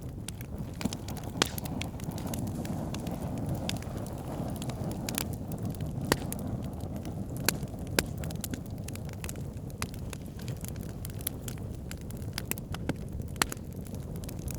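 Wood campfire burning with a steady low rumble, and sharp pops and crackles at irregular intervals, several of them loud.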